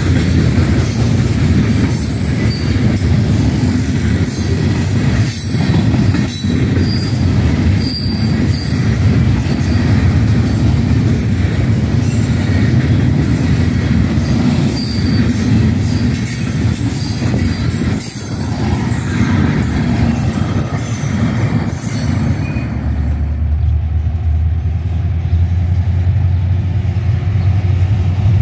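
Freight cars rolling past close by: a steady, loud rumble and clatter of steel wheels on rail, with a few brief high wheel squeals. About 23 seconds in this gives way to a lower, steadier rumble of approaching diesel locomotives, KCSM units led by an EMD SD70ACe.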